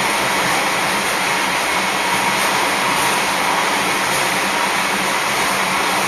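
Sanriku Railway diesel railcar running at speed through a tunnel, heard from inside the car: a steady, loud roar of wheels on the rails and the engine.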